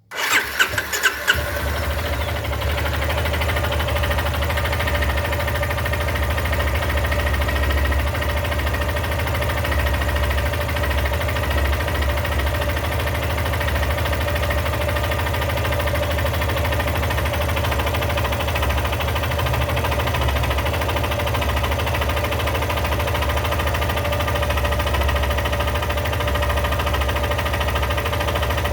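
Yamaha XTZ Lander 250's air-cooled single-cylinder engine started, catching within about a second and a half, then idling steadily. The idle carries the engine noise that the owner is recording to have checked at 34,000 km.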